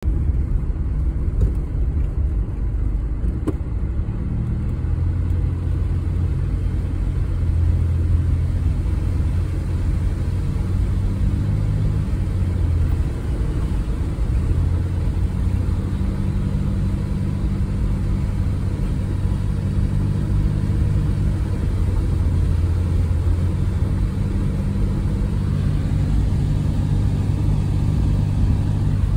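Four-wheel drive's engine running steadily, heard from inside the cabin while it drives through shallow floodwater, its low note stepping up and down a few times.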